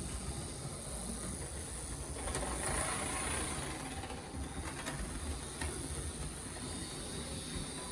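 Märklin model locomotive running round the track, with a steady motor whine over a low rumble and a few light clicks.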